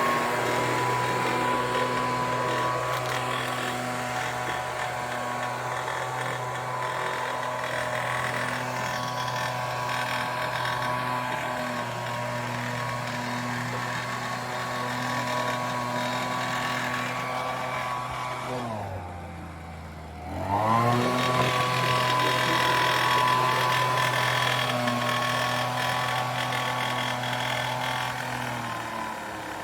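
Homelite UT08572 backpack leaf blower's 30cc two-stroke engine running steadily at high throttle after its repair. About 19 seconds in it drops to idle for a second or two, then revs back up, and it eases off again near the end.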